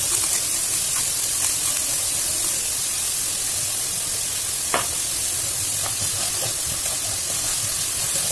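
Diced carrot and onion sizzling in hot coconut oil in a wok, a steady frying hiss with scattered light clicks and one sharper click about five seconds in. A spatula stirs the vegetables near the end.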